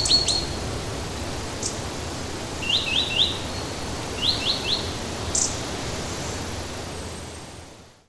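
Birds chirping over a steady forest background hiss, in short runs of about three quick notes each, repeated a few times; it all fades out near the end.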